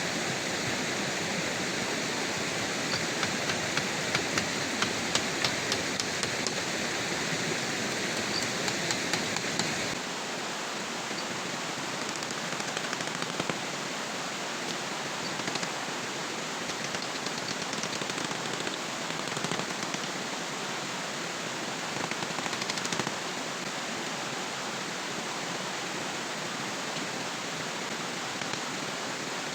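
Steady rushing water noise, rain or running water, with scattered sharp clicks during the first ten seconds. About ten seconds in it changes abruptly to a slightly quieter, even hiss.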